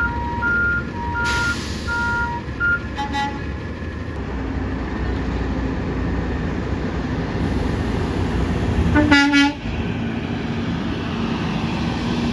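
Garbage trucks in a yard: a reversing truck's backup alarm beeps in two alternating pitches for the first few seconds. A short horn toot follows about three seconds in, and a louder horn blast comes about nine seconds in, over a steady diesel engine rumble.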